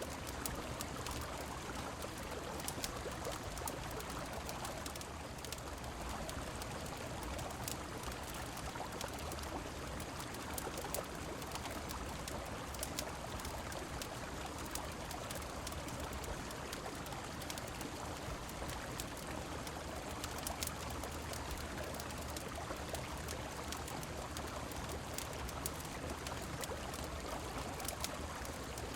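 Steady rushing of a flowing river with falling rain, scattered throughout with many small sharp crackles as from a wood fire in a fireplace.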